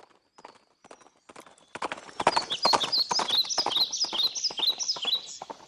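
Horse hooves clip-clopping: a few scattered knocks, then a steady run of hoofbeats from about two seconds in that eases off near the end. Over the hoofbeats comes a string of short, high chirping tones.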